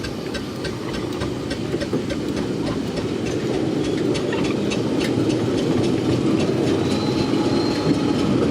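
Miniature railway train running on the track, a steady rumble with wheels clicking over the rail joints, growing louder.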